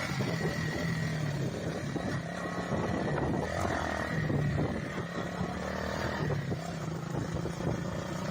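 Motorcycle engine running steadily while riding, under a rush of wind on the microphone.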